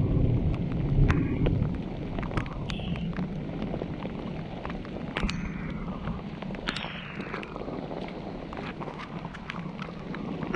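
Wind buffeting the microphone in a rainstorm, a steady low rumble loudest at the start, with many scattered sharp taps.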